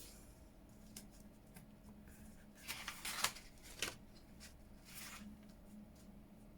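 Paper and card being handled and folded over by hand: a few short, faint rustles and light taps, the loudest cluster about three seconds in.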